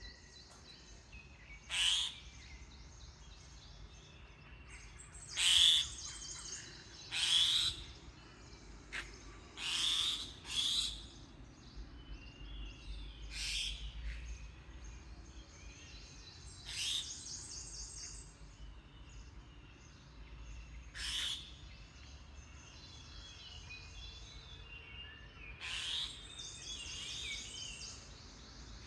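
Wild birds calling in the morning: one bird gives loud, short calls every few seconds, with fainter high chirping from other birds between them.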